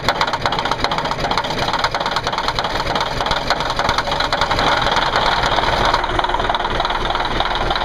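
Diesel engine running at a steady idle with a fast, even clatter.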